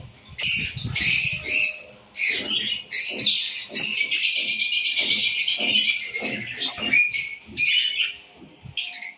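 A flock of small aviary birds chirping and chattering together, many calls overlapping, in bursts that become a dense continuous chatter through the middle and thin out near the end.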